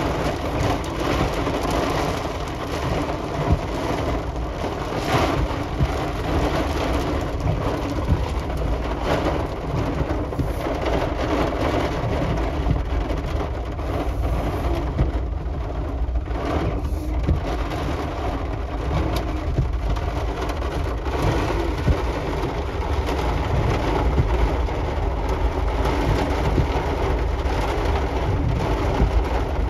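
Heavy storm rain pouring steadily, with a constant low rumble underneath and scattered sharper drop hits.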